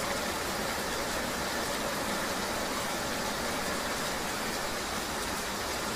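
Steady rain hiss mixed with the low running noise of a vehicle, an even ambient wash with no distinct events.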